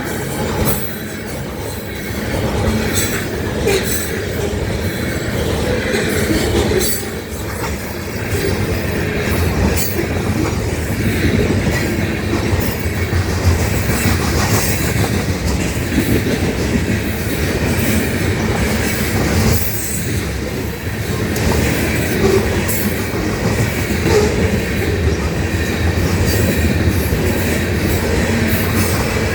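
Freight train rolling past, a steady loud rumble of steel wheels on rail with repeated clicks over rail joints and a faint wheel squeal.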